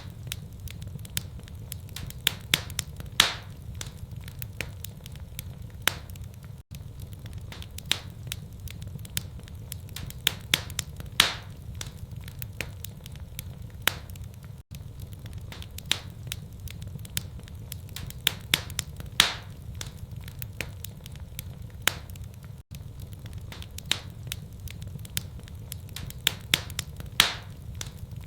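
Wood fire in a fireplace crackling, with irregular sharp pops, a few of them loud, over a steady low rumble. The same run of pops comes round again about every eight seconds.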